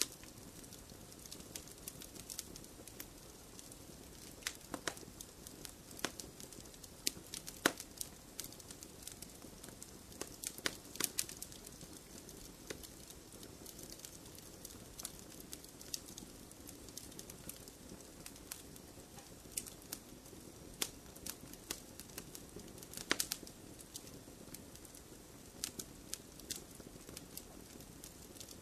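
Wood fire in a fireplace crackling: a steady low rush of burning with irregular sharp pops and snaps, the strongest about a third of the way in and again about four-fifths of the way through.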